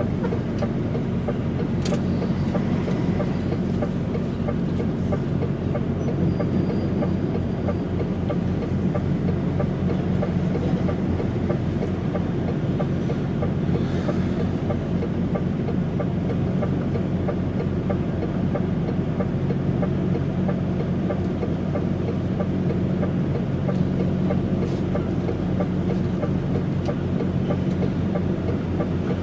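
DAF XF105.460 truck's six-cylinder diesel engine running steadily, heard from inside the cab as an even, low hum with a fast pulse.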